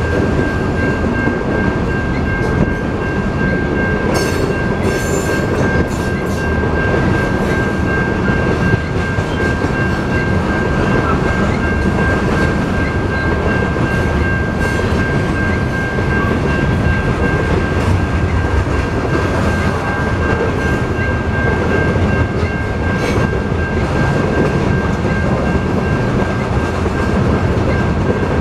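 CSX covered-hopper grain cars rolling past over the crossing: a steady, loud rumble of steel wheels on rail, with the crossing bell ringing a steady tone over it. A few brief high squeals come about four to six seconds in.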